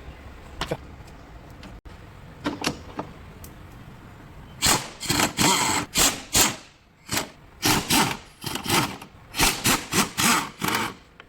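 A run of a dozen or so short, loud knocks and clatters in quick, uneven succession, starting about halfway through, after a few faint clicks.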